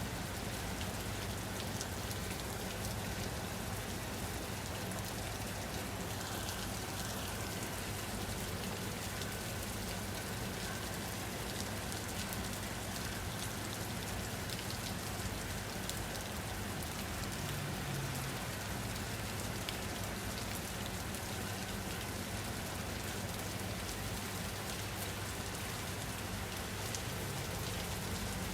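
Steady rain falling, an even hiss with fine drop patter on a surface, and a faint low hum beneath.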